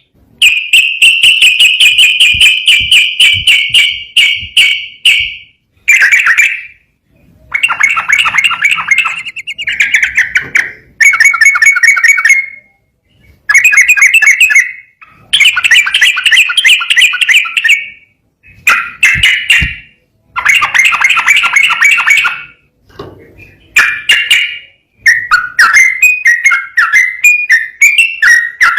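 Yellow-vented bulbul (trucukan) singing loudly in fast runs of rapid, bubbling notes. Each phrase lasts one to four seconds, with short pauses between them.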